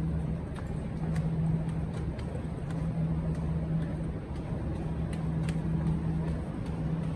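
Steady low hum of a standing passenger train, with a droning tone that comes and goes about once a second, and scattered light clicks.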